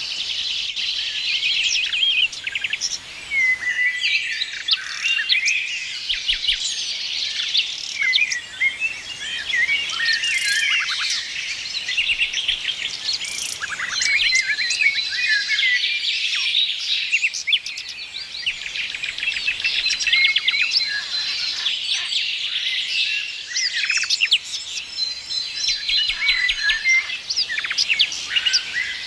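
A chorus of several songbirds singing and chirping together, with overlapping quick trills, chirps and a few held whistled notes.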